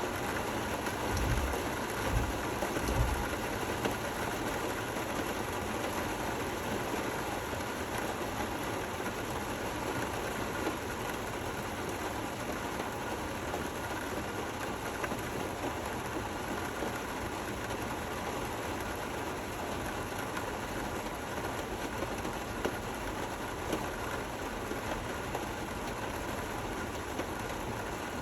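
Steady rain falling, an even hiss with no thunder, and a few brief low thuds about one to three seconds in.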